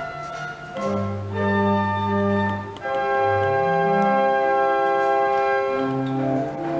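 Organ playing sustained chords, with the bass notes moving in steps beneath; a long chord is held from about three seconds in.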